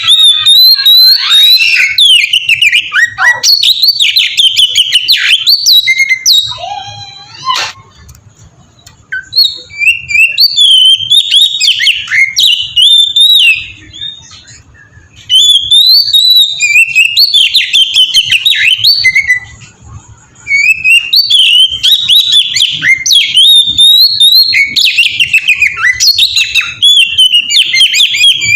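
Oriental magpie-robin (kacer) singing loudly: rapid, varied whistled and chattering phrases in several long bouts broken by short pauses.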